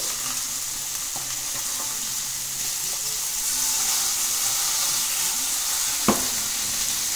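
Fluke fillet searing in a hot pan, a steady sizzle as it is turned with metal tongs, with one sharp clink of the tongs against the pan about six seconds in.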